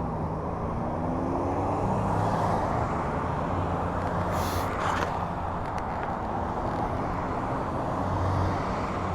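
Road traffic and wind noise heard through a helmet lav mic while riding an electric dirt bike among cars: a steady low hum of vehicle engines, a faint rising and falling whine early on, and a brief hiss about four and a half seconds in.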